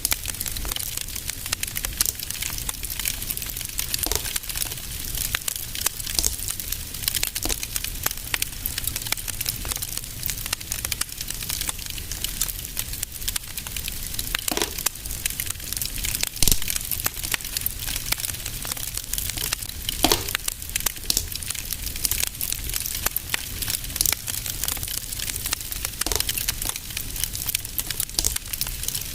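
Wood fire in a fireplace crackling steadily, with dense small snaps and a few louder pops.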